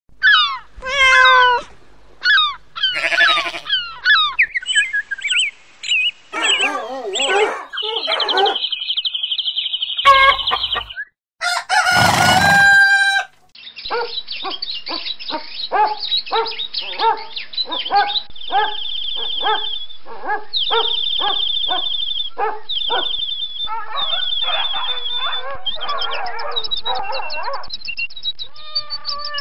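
A string of spliced animal sound clips, mostly bird and fowl calls with chicken and rooster sounds among them. Each clip cuts off abruptly and the next starts every few seconds, and the second half is a fast, repeating run of calls.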